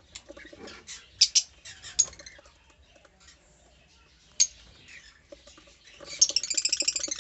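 Caged lovebirds chirping: scattered short, sharp calls, then a burst of rapid chattering near the end.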